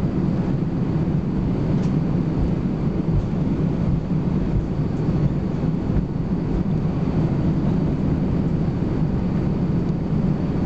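Steady low rumble inside the cabin of an Airbus A320-214 taxiing at low thrust: its CFM56 engines and air conditioning, with a faint high whine above.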